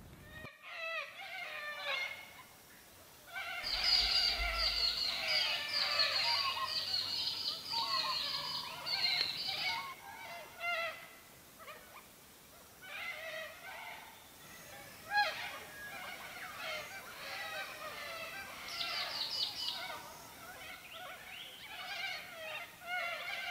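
A flock of birds calling, many chattering, wavering calls overlapping. The calls are densest from about four to ten seconds in, then go on more thinly.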